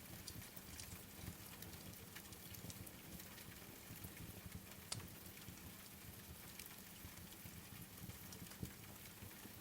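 Faint steady rain mixed with the scattered crackles and pops of a wood fire, with two sharper pops about five seconds in and near the end.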